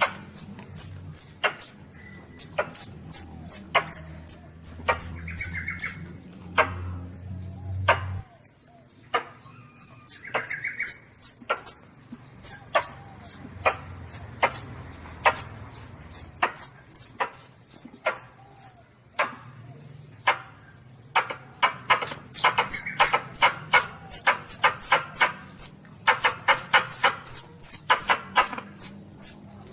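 Asian palm civet kitten calling: a long series of short, sharp, high squeaks, each falling in pitch, repeated two or more times a second and coming in quicker runs toward the end.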